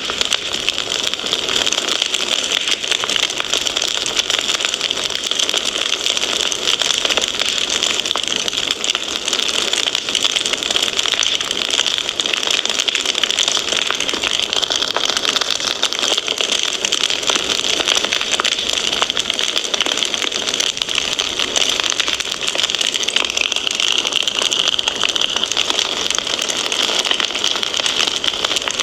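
Fireplace fire crackling steadily: a dense stream of small pops and snaps over an even hiss.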